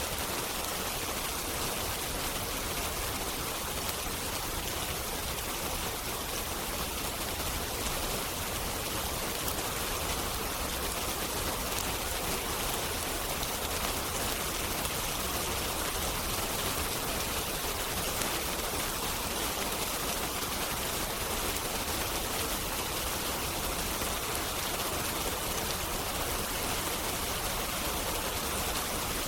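Steady rain falling, an even hiss of water that does not change.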